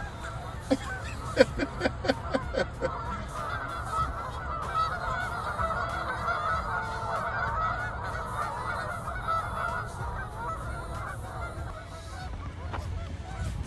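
A flock of geese honking: a few loud single honks about a second in, then many geese honking together for several seconds, thinning out near the end. The honking comes as a person runs at the flock on the bank.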